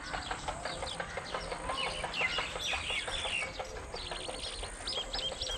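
Birds chirping and calling, many short overlapping calls that are busiest in the middle and come in a quick run of notes near the end.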